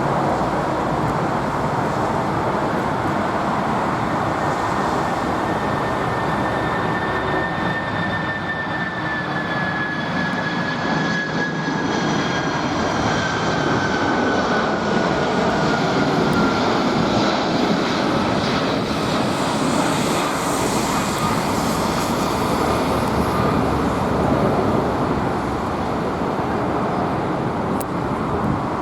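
Jet engines of a four-engine Boeing 747 passing by: a steady, loud rumble with a high whine that slowly falls in pitch through the middle of the pass.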